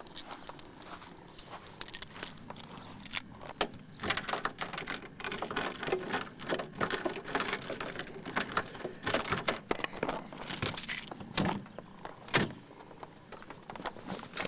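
Keys jangling and being handled, with irregular clicks and rustles.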